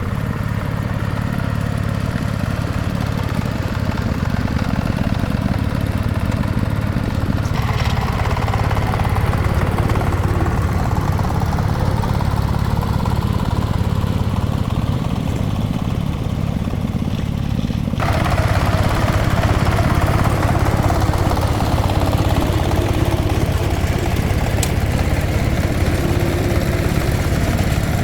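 Engine running steadily with a continuous low hum. Its sound shifts abruptly about 7.5 and 18 seconds in.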